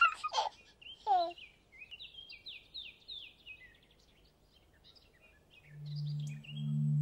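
Birdsong: a few falling whistled calls, then a run of quick, high, repeated chirps that thins out. About five and a half seconds in, a low steady musical chord swells in beneath it.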